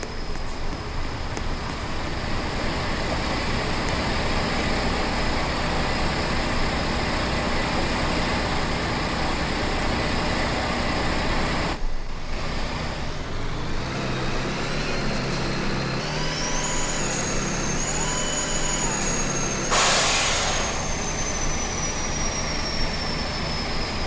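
Truck driving on the road: steady engine and road noise, with the engine note shifting after about a dozen seconds and a thin high whine joining in. A short burst of hiss comes about 20 seconds in.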